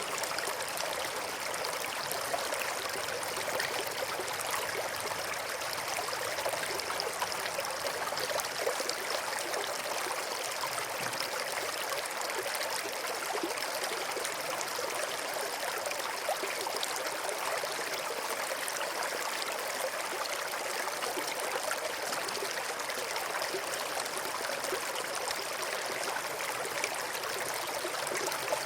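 River water flowing and burbling over rocks: a steady, even rush of running water.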